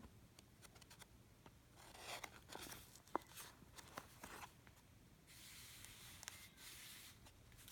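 Faint rustling of paper and card pages being handled and turned, with a few light clicks, then a longer soft sliding rustle near the end.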